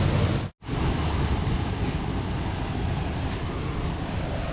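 Steady rushing roar of falling water from a waterfall, broken by a brief instant of silence about half a second in.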